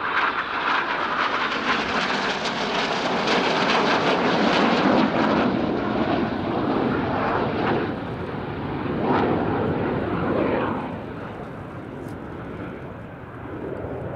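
BAE Hawk T1 jets with Rolls-Royce Turbomeca Adour turbofans making a loud flypast during an aerobatic pass. The jet noise builds to a peak about four to five seconds in, swells briefly again near ten seconds, then fades as the jets pull away.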